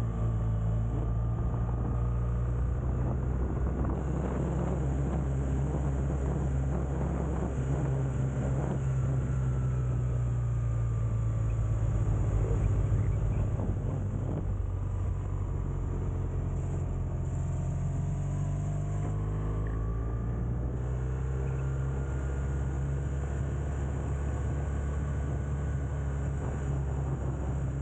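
Motorcycle engine running while riding, a steady low hum whose pitch shifts up and down with speed, over wind and road noise.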